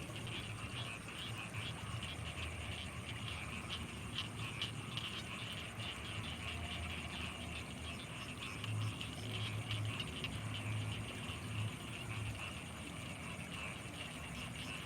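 Night chorus of frogs and insects in rice paddies: a dense, rapid pulsing chorus over a steady high-pitched insect whine, with a deeper pulsing sound in the second half.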